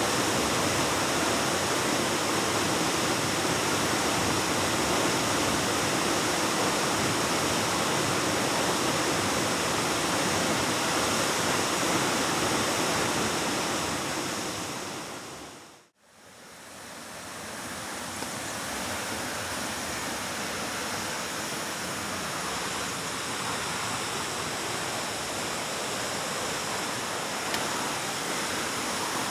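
Waterfall rushing steadily. About halfway through, the sound fades out to near silence and straight back in, somewhat quieter and with less low rumble afterwards.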